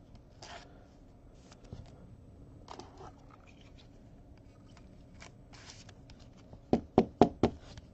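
Faint rustling and small clicks of cards and packaging being handled, then a quick run of about four sharp knocks near the end.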